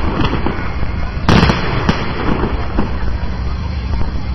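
Fireworks going off: one big bang about a second and a half in, a sharper crack soon after, over a steady low rumble of further bursts.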